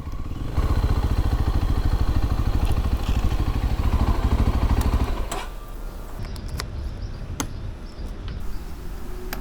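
Motorcycle engine pulling hard under throttle for about four and a half seconds, then dropping back to a quieter, steadier run. Several sharp clicks follow shortly after it eases off.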